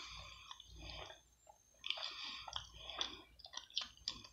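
A person chewing food close to the microphone: soft wet clicks and smacks of the mouth, pausing for about half a second a little over a second in.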